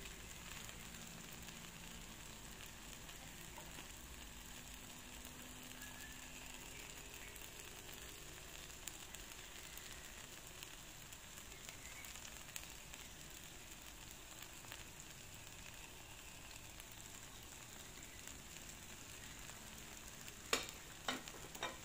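Takoyaki batter frying in oil in the cups of a takoyaki pan, a faint steady sizzle with small crackles. A few sharp clicks come near the end.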